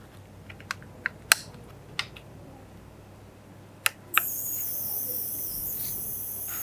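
Several sharp clicks, then about four seconds in a small electric device switches on with a steady high hiss and a thin whine.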